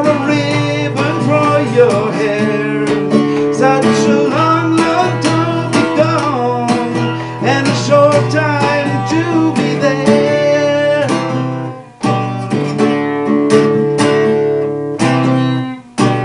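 Acoustic guitar strumming the closing chords of a song, with a brief break about twelve seconds in before the strumming picks up again.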